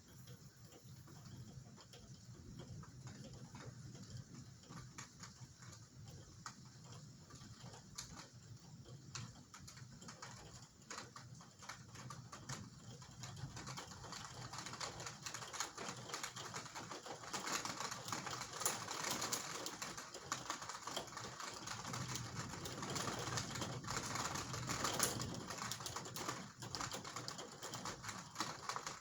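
Rain pattering on a hard surface during a thunderstorm: a dense, irregular crackle of drops that grows heavier about halfway through.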